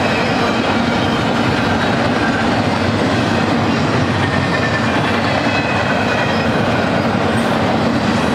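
Loaded double-stack intermodal well cars rolling past at steady speed: a constant rumble of steel wheels on rail with rhythmic clickety-clack from the trucks.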